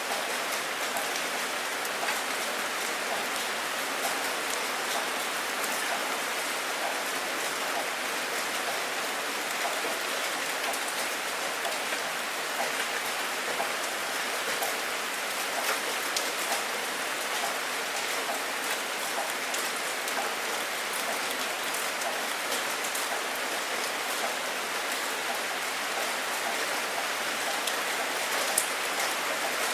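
Steady rain falling, a dense hiss of drops with many small individual drop ticks on a surface.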